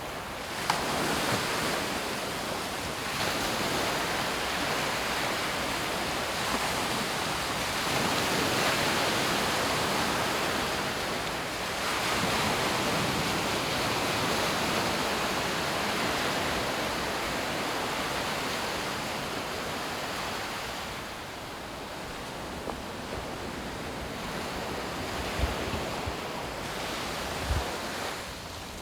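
Sea waves breaking and washing up the beach, the surf swelling and easing every several seconds, with wind buffeting the microphone in a few low bumps near the end.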